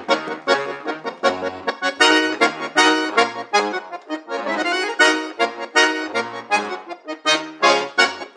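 Solo accordion playing quick, detached notes and chords, with short low bass notes sounding now and then underneath.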